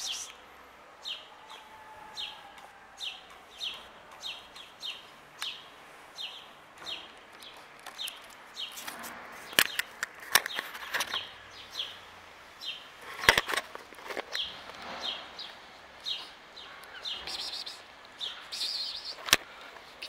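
A songbird singing a long run of short, high, falling chirps, repeated about every half second. A few sharp clicks stand out in the second half.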